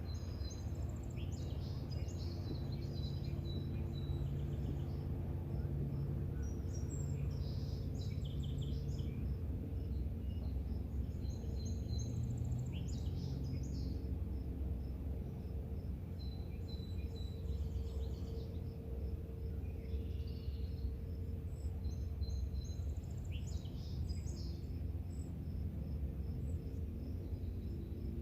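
Evening outdoor ambience: a songbird sings a short phrase every few seconds, over an insect's steady, evenly pulsed high chirping and a continuous low rumble.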